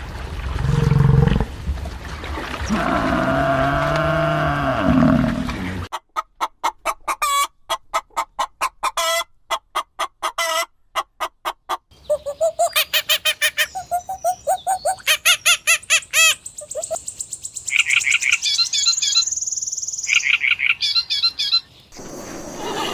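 Bird and fowl calls: a lower pitched call for the first few seconds, then rapid even clucking, then fast high chirps and trills.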